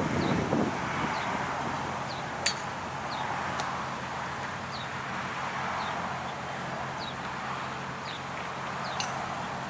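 A small bird giving short, high, downward-slurred chirps, repeated about once a second over a steady background rush, with a few sharp clicks.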